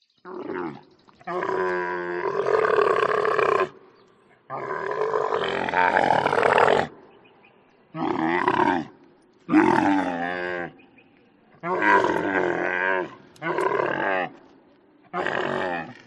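Camel calling: a series of about eight pitched calls, some short, some two to three seconds long, with short pauses between.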